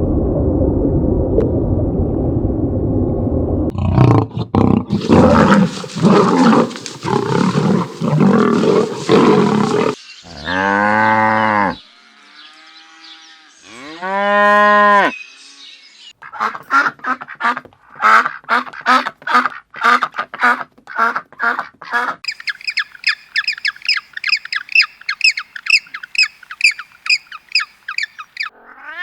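A run of different animal calls, one kind after another: a low rumbling call, a noisy pulsing stretch, two separate drawn-out pitched calls, a fast series of short calls, then a long run of high, evenly spaced chirps.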